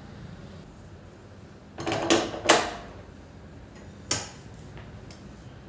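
Kitchen handling sounds: a short clatter of two or three knocks about two seconds in, like a drawer or dishes being moved, then a single sharp click about four seconds in.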